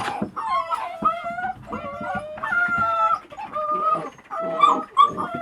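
Presa canario puppy whining: a run of short, high-pitched whines and yelps with brief breaks between them.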